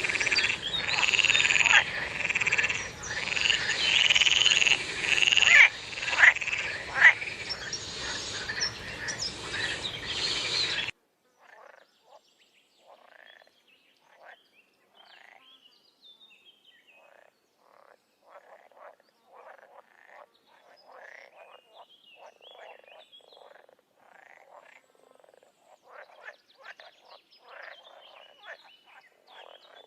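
Frogs calling: a loud, dense chorus of overlapping calls that cuts off suddenly about a third of the way in, followed by a much quieter run of separate short croaks.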